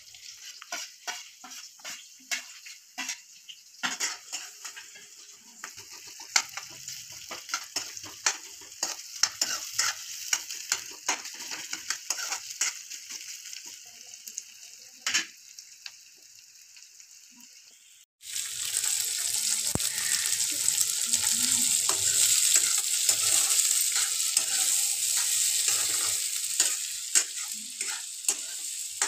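Sliced onion and green chilli sizzling in hot oil in a metal kadhai, with a steel spoon clicking and scraping against the pan as it stirs. About 18 seconds in the sound cuts, and a louder, fuller sizzle follows as green peas fry and are stirred.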